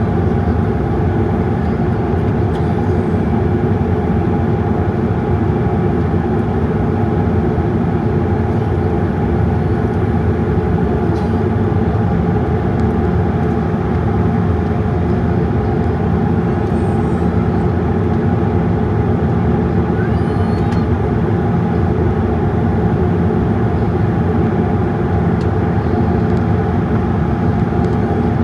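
Steady drone of a Boeing 787-8 airliner heard from inside the passenger cabin: a constant rush of engine and airflow noise with a low hum, unchanging throughout, with a few faint brief high chirps.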